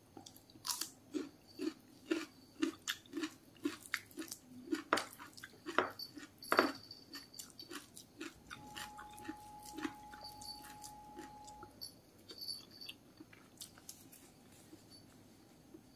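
A person chewing a mouthful of raw cucumber, with crisp crunches and wet mouth clicks about twice a second. A few louder crunches come about five to seven seconds in, and after that the chewing is sparser and softer.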